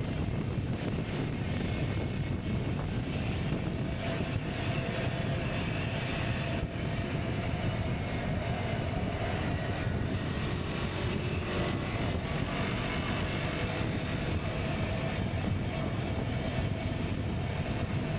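KTM Duke 125's single-cylinder engine running at a steady pace while riding, with wind rushing over the microphone.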